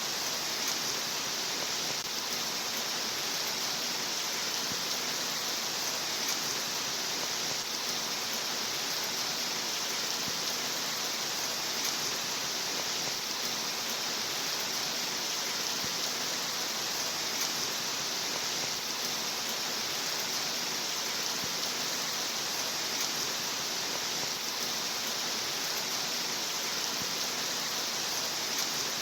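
Steady rain, an even hiss of falling rain with no breaks or changes.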